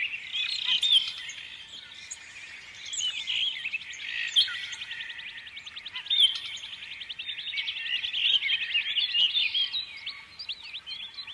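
Several small songbirds chirping and twittering at once, overlapping short calls, with a fast rattling trill running for a few seconds near the middle.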